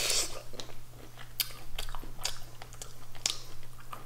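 A shrimp being bitten and chewed: a short wet bite at the start, then irregular wet clicks and smacks of the mouth.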